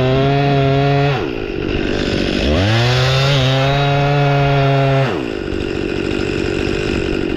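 Stihl chainsaw making the back cut on a tree being felled. The engine runs at a steady high pitch, eases off about a second in, revs back up and holds, then eases off again about five seconds in.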